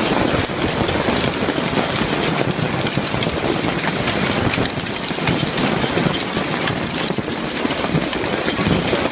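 Heavy hail mixed with rain pelting down, a dense steady downpour with countless sharp stone impacts.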